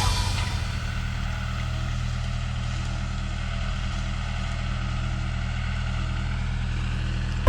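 An engine running steadily at low speed, a low, even drone with no change in pitch.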